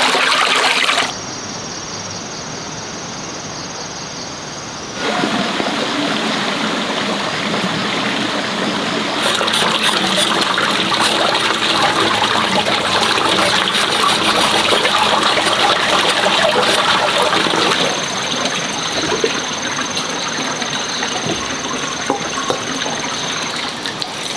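Running and splashing water, steady but changing abruptly in level several times, dropping about a second in and coming back louder near five seconds.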